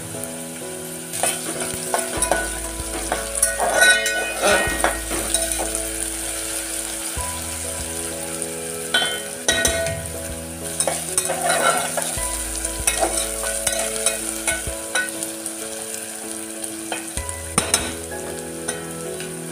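Onion and ginger-garlic paste frying in hot oil in an aluminium pot, a steady sizzle, while a metal ladle stirs and scrapes against the pot in several short bouts.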